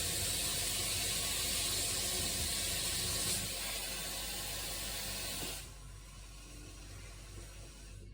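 Water running from a tap, filling the coffee maker with water, then shut off about five and a half seconds in.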